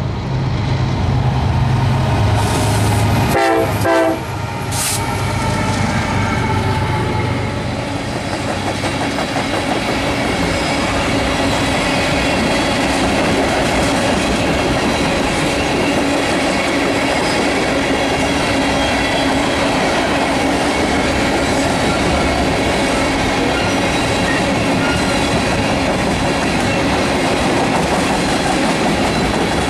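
Diesel freight locomotives rumbling past, with a brief pitched horn-like note about three to four seconds in. After that comes a long string of railroad tank cars rolling by, with steady wheel-on-rail noise and clickety-clack from the rail joints.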